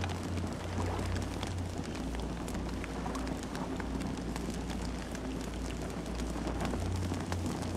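Campfire crackling: a dense stream of small sharp pops and snaps from burning wood over a steady low rumble.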